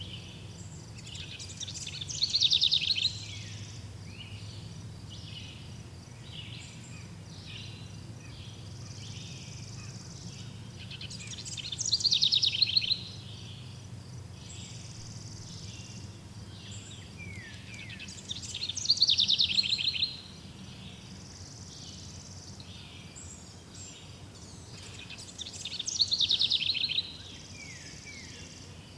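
Birdsong: one bird repeats a loud song phrase four times, about once every seven seconds, each a rapid trill of about a second that swells as it goes. Softer chirps from other birds and a steady insect-like hum run underneath.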